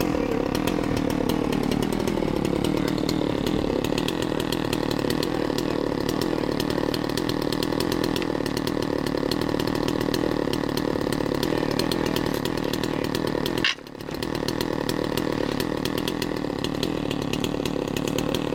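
Gas-powered chainsaw running at high speed under load, cutting a ventilation opening through roof decking. Its pitch sags a little in the first couple of seconds. It breaks off abruptly for a moment about three-quarters of the way through, then carries on.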